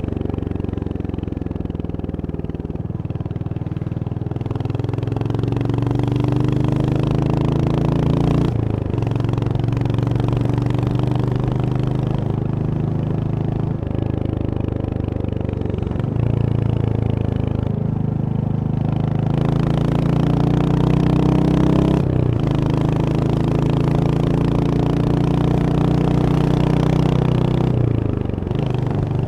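Royal Enfield Hunter 350's single-cylinder engine under way, its pitch climbing as it accelerates and dropping back sharply at each gear change, several times over.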